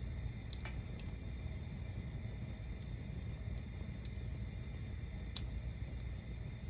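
Log bonfire built as a tower, burning with a low steady rumble. A few sharp crackles and pops come through it, one near the start and another about five seconds in.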